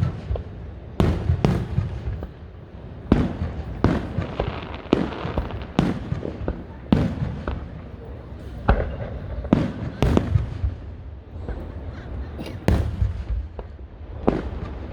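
Aerial fireworks shells bursting in quick succession, about one or two sharp bangs a second, each followed by a low rolling rumble.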